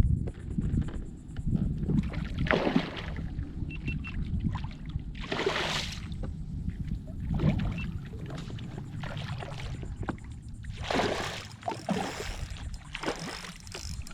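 Water sloshing and splashing against a kayak hull in a series of short splashes over a steady low rumble of wind on the microphone.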